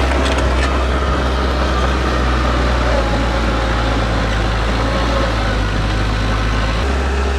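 Diesel engine of heavy earthmoving equipment running steadily, its low note shifting slightly near the end.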